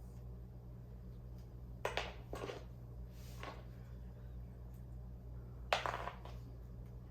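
Handling noises from kite-making: a few short rustles and scrapes, about two seconds in and again near six seconds, over a steady low hum.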